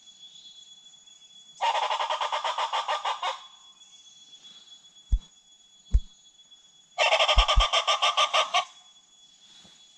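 A bird's rapid, clucking, rattling call, given twice, each call lasting about a second and a half. A faint steady high-pitched whine runs underneath, and there are a few low thumps between and during the calls.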